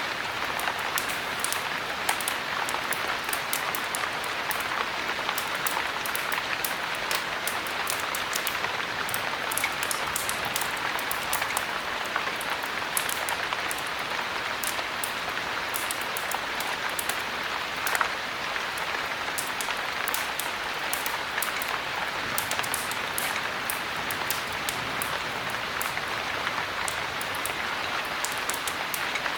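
Steady heavy rain: an even hiss with many small sharp ticks scattered through it.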